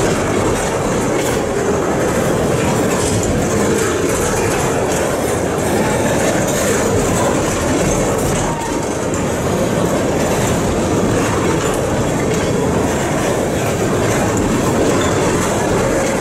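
Freight train of tank cars rolling past, steel wheels on rail making a steady, loud rumble.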